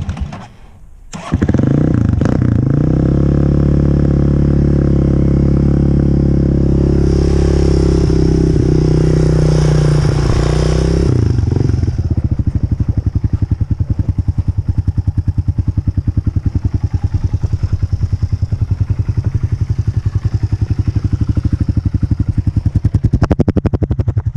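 Honda CRF125F dirt bike's single-cylinder four-stroke engine starting about a second in after a few knocks. It runs at a fast, steady idle, then about halfway through settles to a slower idle with each firing pulse audible.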